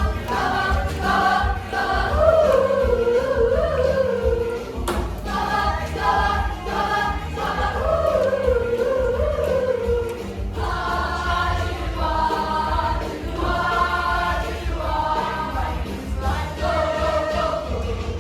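Music with a group of voices singing a melody together, over a steady low rumble.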